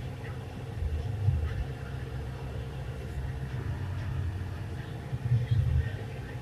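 Low, steady rumble of a motor vehicle.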